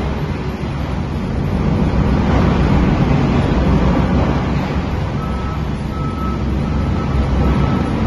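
Heavy machinery running steadily with a dense low rumble. From about five seconds in, a reversing alarm beeps at regular intervals.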